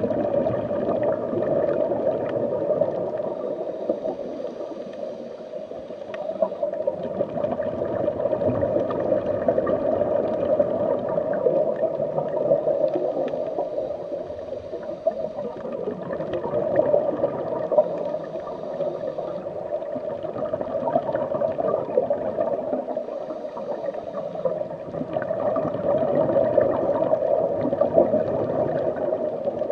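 Muffled underwater ambience: a steady watery rush with gurgling that swells and eases every few seconds.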